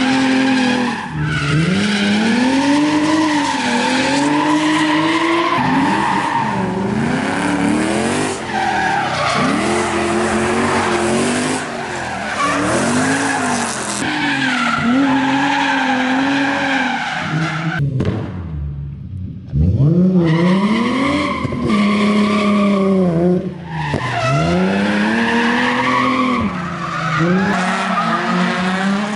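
A car's engine revving up and falling back over and over as it drifts on grass, with the tyres skidding. Past the middle the engine note drops away for a moment, then comes back with a sudden loud rev.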